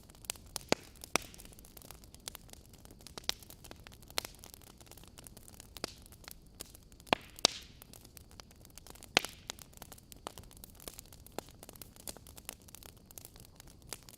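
Wood fire burning in a fireplace: logs crackling with sharp, irregular pops over a soft hiss, several louder snaps standing out, the strongest about seven and nine seconds in.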